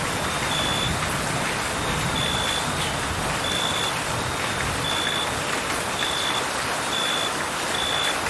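Steady rain falling, with a cricket chirping through it: a short, high, even trill that repeats about once a second, seven times in all.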